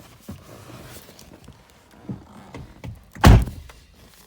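A few light knocks and rustles, then one loud, short, heavy thunk a little over three seconds in: a car door shutting.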